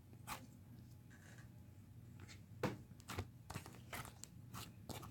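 Faint handling noise: scattered soft clicks and crackles from slime and its containers being handled, the loudest about two and a half seconds in.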